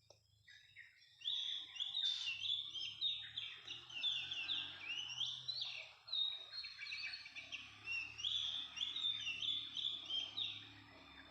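Oriental magpie-robin (kacer) calling: a fast, dense run of high chirping and warbling notes that starts about a second in and stops shortly before the end.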